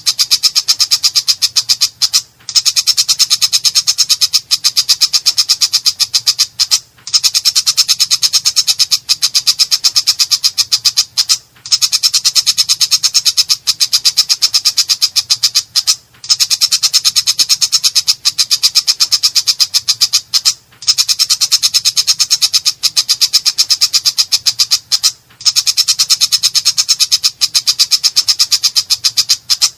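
Long-tailed shrike (cendet) calling continuously in a harsh, rapid, high-pitched rattling chatter, broken by a brief pause about every four and a half seconds.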